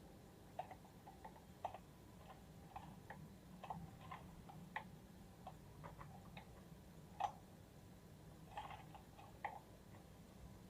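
Faint, irregular light clicks and taps over a low steady hum, the loudest about two-thirds of the way through.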